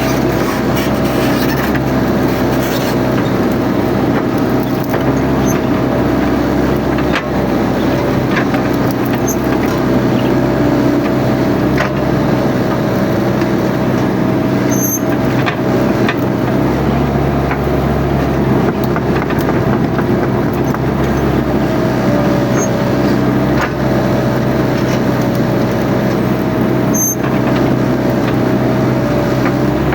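Mini excavator's diesel engine running steadily under work, with a wavering hydraulic whine over it and occasional sharp knocks.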